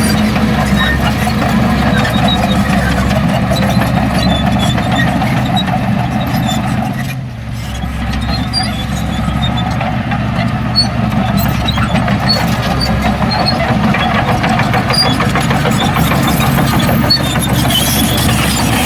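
Heavy diesel engine of earthmoving machinery running steadily, dipping briefly about seven seconds in before picking back up.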